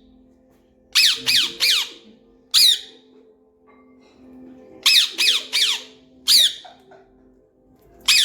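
Parrot squawking in short harsh calls, each falling in pitch. They come in quick groups of three followed by a single call, and the pattern repeats.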